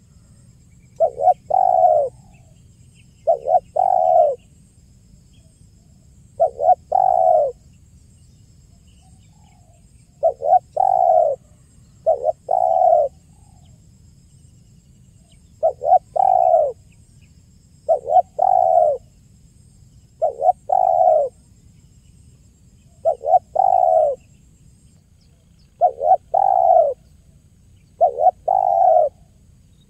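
Spotted dove (tekukur) cooing its 'kuk 1' song. The same short phrase repeats about every two to three seconds: a quick pair of short notes running into a longer coo.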